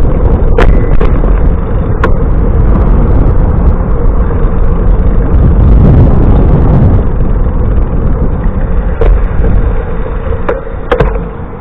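Wind buffeting a camera microphone on a moving bicycle: a loud, steady low rumble, with a few sharp clicks and knocks from the bike, the loudest pair near the end.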